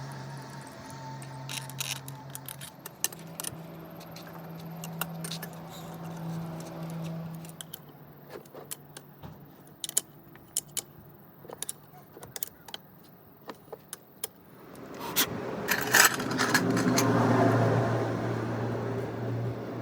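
Small metal parts and hand tools clinking and tapping, many separate sharp clicks over a low steady hum. From about fifteen seconds in, a louder rumbling noise with a steady low tone rises and holds.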